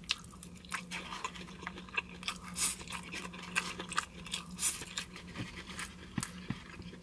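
Close-up chewing and mouth sounds of a person eating rice and grilled meat: irregular wet smacks and small clicks, with light taps of a plastic fork on a styrofoam box, over a faint steady low hum.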